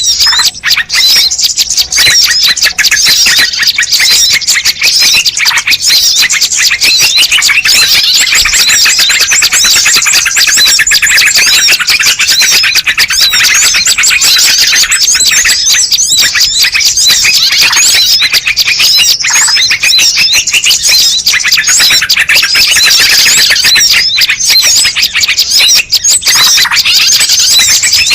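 Bird-lure recording: a dense chorus of many small birds chirping and twittering at once, loud and continuous, with high, quick chirps packed closely together.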